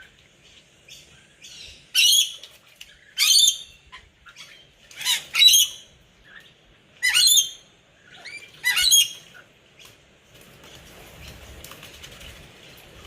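Rainbow lorikeets bathing in a water pot: six loud, harsh screeches with falling pitch, mixed with wing-flapping splashes, one to two seconds apart. In the last few seconds a quieter steady hiss takes over.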